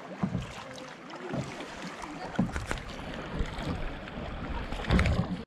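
Kayak paddling on a river: water splashing and swishing from the paddles, with low rumbles of wind on the microphone, the strongest near the end.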